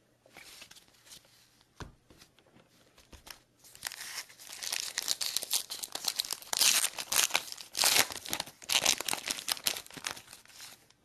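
A foil trading card pack wrapper being torn open and crinkled: a few faint handling ticks at first, then dense crinkling from about four seconds in until just before the end.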